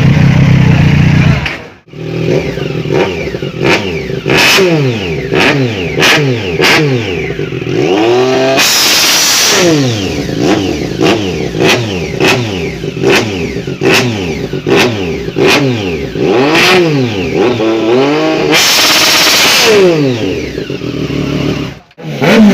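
Superbike engines revving hard, with repeated throttle blips that rise and fall in pitch and sharp cracks in the first part. Twice the revs climb high and hold briefly, once about halfway and again near the end.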